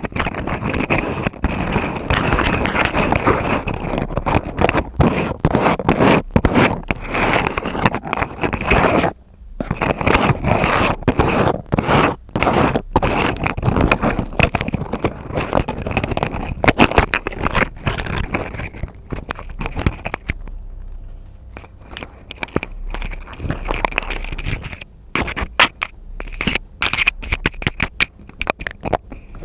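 ASMR scratching and scraping close to the microphone: a dense, continuous scratchy rustle full of small clicks, with a quieter, sparser stretch about two-thirds of the way through.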